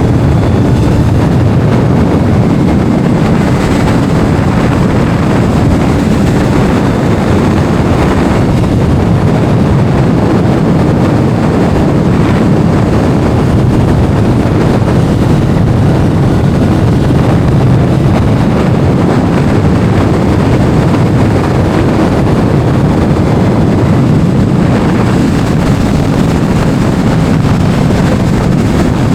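Heavy wind buffeting on the microphone of a moving sport motorcycle: a loud, steady rush, with the bike's engine running underneath.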